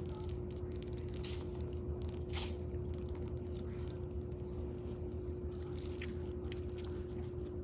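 A person chewing and biting food close to the microphone, with scattered small clicks, over a steady background hum.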